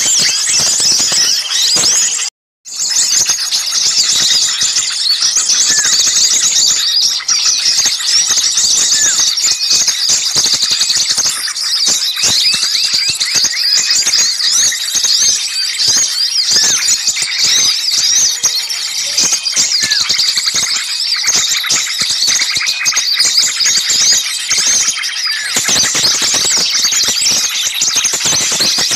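Dense, loud chorus of many small birds calling at once in rapid, agitated chatter: a bird-lure recording meant to draw small birds in. The sound drops out completely for a moment about two and a half seconds in.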